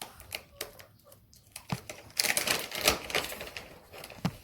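Cat-treat packet being handled and opened: scattered light clicks, then a dense rustling rattle lasting about a second, starting about two seconds in, as treats are shaken out.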